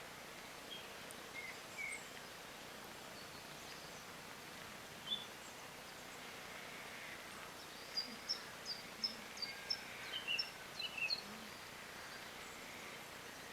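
Small birds chirping over a steady hiss of outdoor background noise: scattered single short high chirps, then a quick series of about ten sharp high chirps in the second half.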